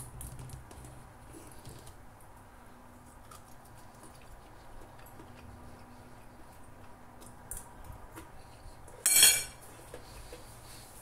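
A person chewing a mouthful of pan-fried cep bolete, with faint mouth sounds and a small clink of a fork at the start. About nine seconds in there is a short, loud burst of noise.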